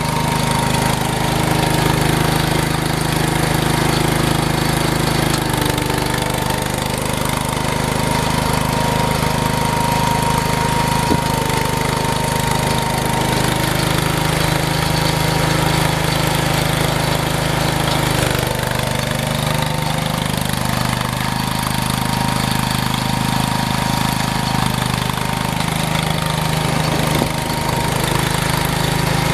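Engine running steadily under load, its note shifting a few times: about five seconds in, around eighteen seconds, and again near the end.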